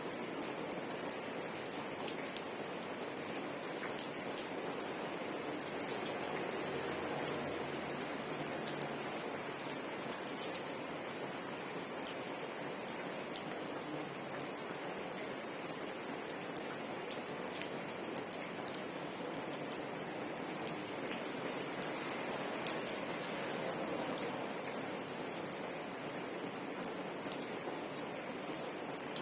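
Steady rain falling, a continuous even patter with scattered individual drops ticking sharply on a surface.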